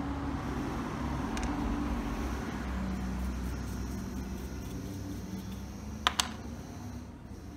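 Steady low hum with background noise, broken by two sharp clicks a fraction of a second apart near the end.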